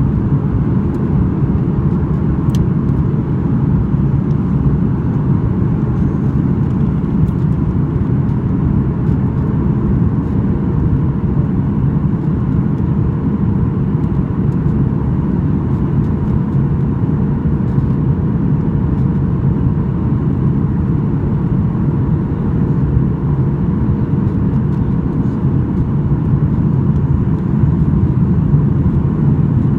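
Steady cabin noise inside a Boeing 737-800 in flight: a deep rumble of airflow and its CFM56 jet engines, with a faint steady whine above it.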